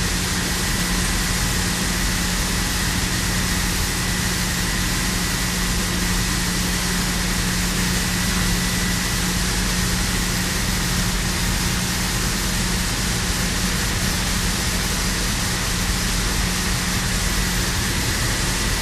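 Steady hiss with a constant low hum and a faint high whine from running industrial plant equipment, unchanging throughout.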